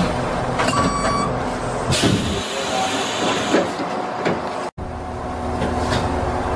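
Electric train standing at a station platform, heard from inside the driver's cab: a steady hum of onboard equipment with a few clicks and knocks. The sound cuts out for an instant just before five seconds in.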